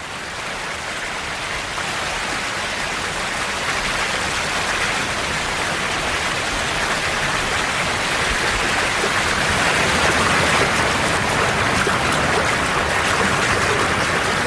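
River water rushing in a steady, even rush that swells a little over the first couple of seconds.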